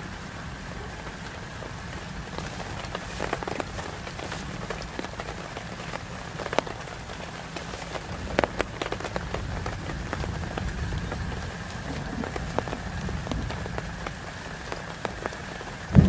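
Heavy rain falling steadily, with scattered sharp drop impacts over a low rumble. A loud knock comes at the very end.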